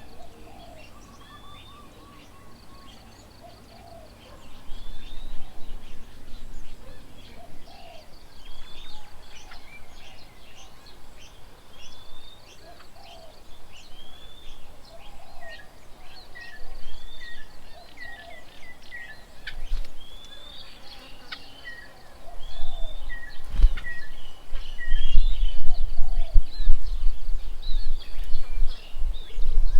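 Several birds call and sing at once, with many short, repeated curving whistled notes at a few different pitches. From about two-thirds of the way in, a loud low rumble, like wind buffeting the microphone, rises over them.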